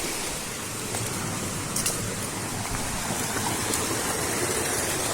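Steady rushing of water from a waterfall, an even unbroken noise.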